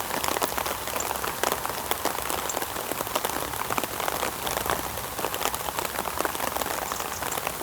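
Heavy rain falling: a steady, dense hiss made of countless small drop impacts, loud enough that a voice may not be heard over it.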